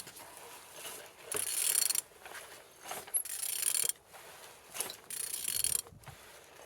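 An engine being turned over by hand: three spells of whirring, ratchet-like mechanical noise, each about a second long, as the rotating parts spin. It turns freely, a sign the engine is not seized.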